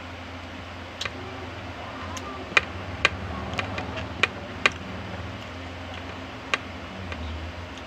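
Eating sounds: about seven sharp, separate clicks and crunches at irregular intervals, over a steady low hum.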